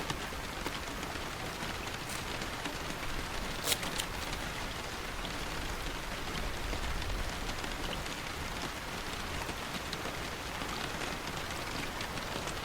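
Steady rain falling, an even hiss of drops. One short, crisp sound about four seconds in.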